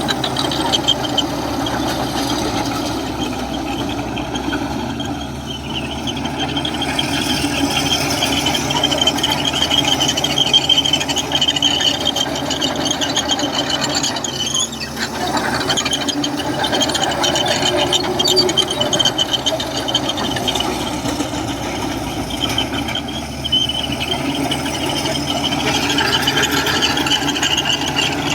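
Komatsu crawler bulldozer working: its diesel engine running steadily while the steel tracks squeal and rattle.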